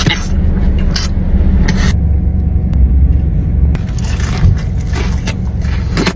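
Crunchy bites and chewing of fried food, a run of short crackling crunches, densest near the end, over a steady low rumble.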